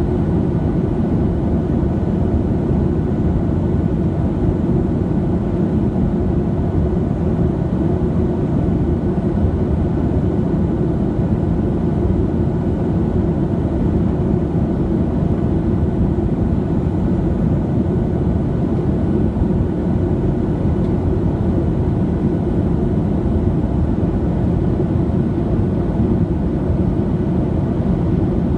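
Steady cabin noise inside a Boeing 737-700: the low rumble of its CFM56 jet engines and the rushing air, unchanging throughout.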